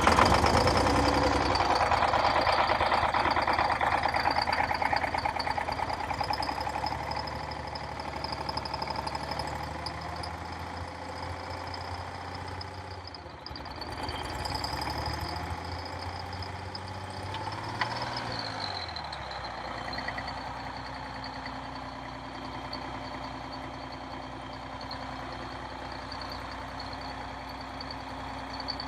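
Detroit Diesel 6V92 two-stroke V6 diesel in an MC9 coach starting from cold and running loud and uneven, not all cylinders firing: the owner suspects leaking or clogged injectors or stuck piston rings. About two-thirds of the way through it is given fuel, its pitch rising and then dropping at about nineteen seconds, and it settles into a steady idle as all the cylinders light.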